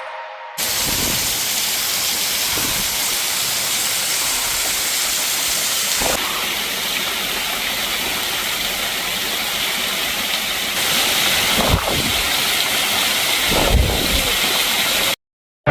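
Waterfall: a loud, steady rush of falling water, with a few faint knocks.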